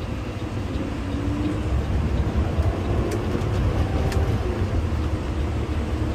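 Peterbilt garbage truck's diesel engine running under way, with a steady low rumble and road noise heard from inside the cab, swelling a little as it pulls.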